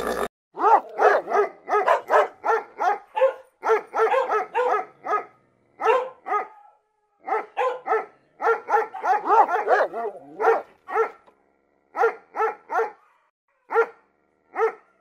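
A small dog barking in short high-pitched yaps, in quick runs of several a second broken by brief pauses. Near the end the runs thin out to single yaps.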